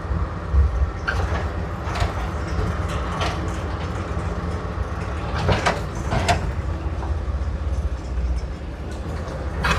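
Old truck's V8 engine running steadily on all eight cylinders while driving, a continuous low rumble with a few short clunks and rattles from the truck along the way.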